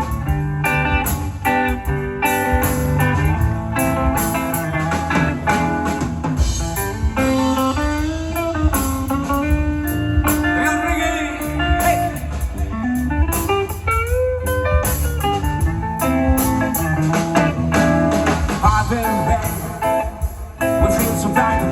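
Reggae band playing live: an instrumental passage with a guitar lead whose notes slide up and down in pitch over a steady beat.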